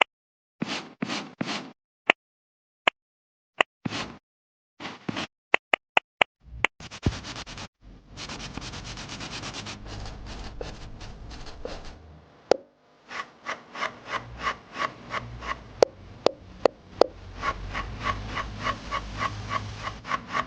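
Stylus tapping and scratching across a tablet screen while drawing. It starts with separate sharp taps and short strokes. Then come continuous rubbing strokes, which turn into a quick back-and-forth hatching rhythm of about three or four strokes a second in the second half.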